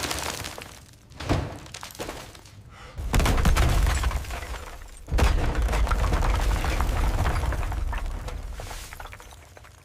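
Heavy crashing booms as a rusted-shut safe is forced open: one starts suddenly about three seconds in and another about five seconds in, each fading over a few seconds, with smaller knocks before them.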